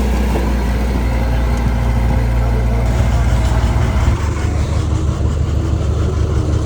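Heavy-equipment diesel engine running steadily with a deep low hum, its tone shifting about four seconds in.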